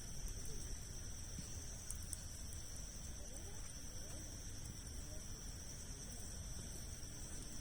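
Insects, crickets by the sound of it, trilling steadily on one high, unbroken note, with a few faint sharp crackles from a wood campfire and a low rumble underneath.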